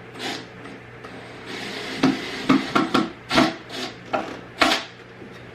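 Screws being driven into the wooden boards of a flat-pack shelf unit: a series of short scraping rubs and a few sharp knocks, busiest in the second half.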